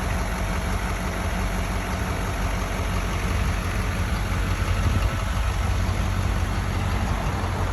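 Ford F550 service truck's engine idling steadily.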